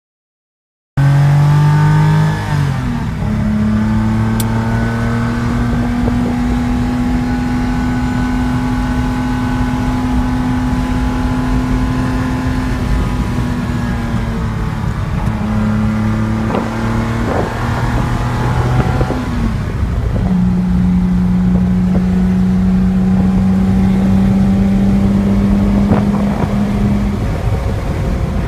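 Ligier JS2 engine heard from inside the cabin while driving, a steady engine note over road and wind noise. Its pitch steps down and settles at a new level a few times, as with gear changes.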